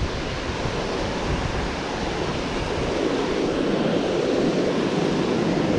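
Steady rushing of fast river water, with a hint of wind on the microphone.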